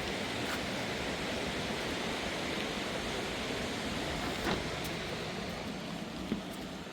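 Rushing river water: a steady noise, with two short knocks in the second half.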